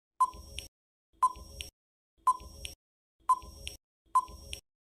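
Quiz countdown-timer sound effect: five ticks, about one a second, each a short beep followed by a fainter click.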